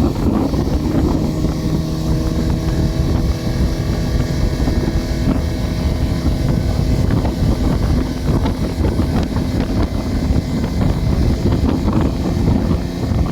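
60 hp outboard motor running steadily at speed on a top-speed run, trimmed out, with wind rushing over the microphone.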